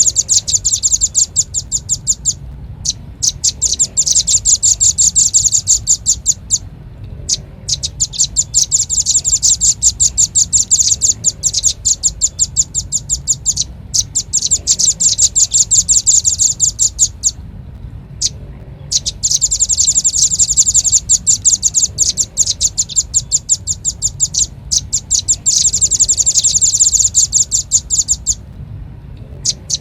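Velvet-fronted nuthatch lure call: fast runs of high, sharp chipping notes, many per second, repeated in bursts of a few seconds with short pauses between, over a faint low hum.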